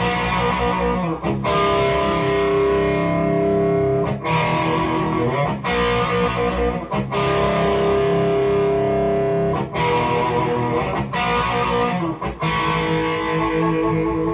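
Electric guitar playing an 80s-style riff through a REVV G3 distortion pedal in its red, most aggressive mode, with the guitar's volume knob turned well down for a light crunch and reverb added. Held, ringing chords change every second or so, with short breaks between them.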